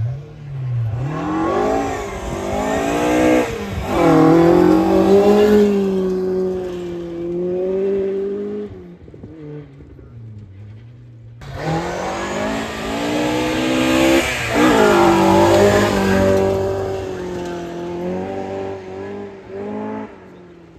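Two rally cars passing one after the other, each engine revving hard with its pitch dropping and climbing as it changes gear, and a short lull between the two cars.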